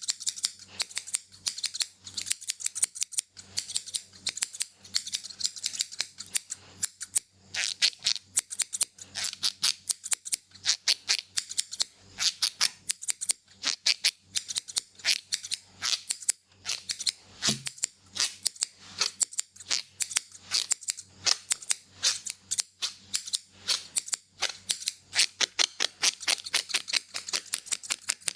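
Barber's scissors snipping rapidly and steadily, many sharp metallic cuts a second, close to the microphone.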